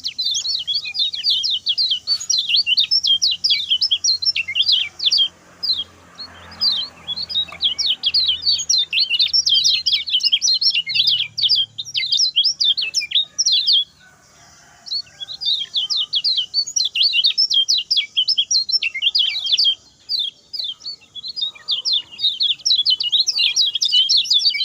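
Common iora (kecial kuning) singing its short, fast song: long runs of rapid, high, short chirps, many a second. The runs break off briefly about halfway through and again later before starting up again.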